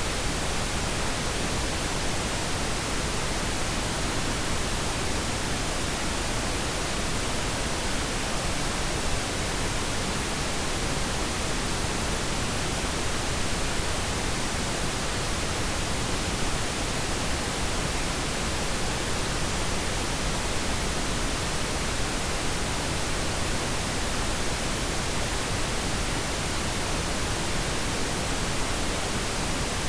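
Steady synthetic pink noise: an even, unchanging hiss across the whole range, softer in the highs than white noise.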